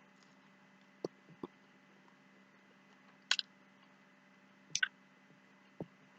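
A few scattered short clicks and wet smacks of eating, over a faint steady hum; the two sharpest, higher clicks come about three seconds in and near the end.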